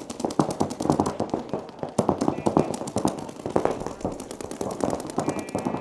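Paintball markers firing rapid strings of shots, many sharp pops a second, with brief lulls between strings.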